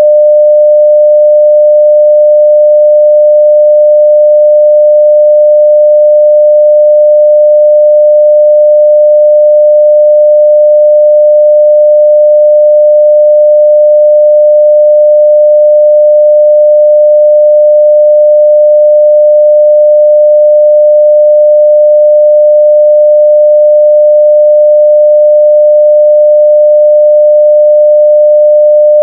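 Loud, steady 600 Hz sine-wave test tone at full level, one pure unchanging pitch.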